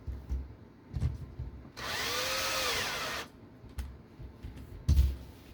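Cordless power screwdriver driving a screw, its motor running once for about a second and a half with a pitch that rises and then falls. Short low knocks of parts being handled come before and after it.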